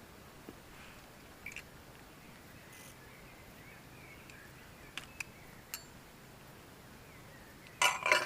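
Faint bird chirps with a few sharp clicks, then a short loud clatter near the end.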